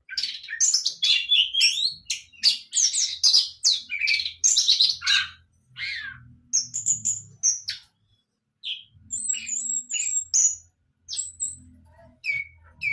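A young orange-headed thrush singing: a rapid, varied run of warbling phrases for about five seconds, then sparser short high notes and chips. It is a young bird still learning its song.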